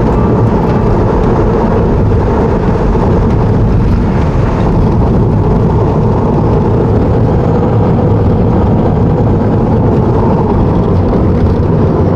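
Steady rushing wind and road noise inside a Tesla Model 3's cabin at highway speed. It is strongest low down and carries no engine sound. This is the wind noise that the newly fitted door and trunk seals have not cured.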